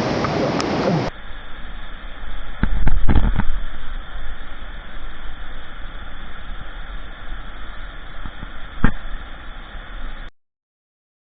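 Steady rush of a waterfall and river water, turning duller and muffled about a second in. It carries a cluster of loud low thumps about three seconds in and a single sharp knock near the end, then cuts to silence in the last second.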